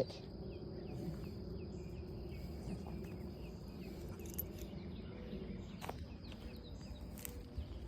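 Outdoor ambience: small birds chirping in short repeated notes over a steady insect drone, with two sharp clicks in the second half.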